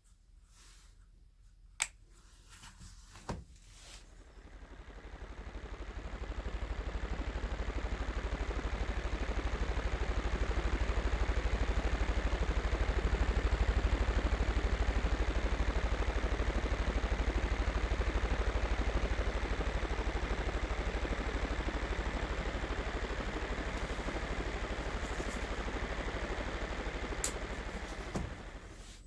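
Two clicks, then a small battery-powered electric motor spins up over a few seconds, runs steadily with a low hum and a broad whir, and dies away near the end.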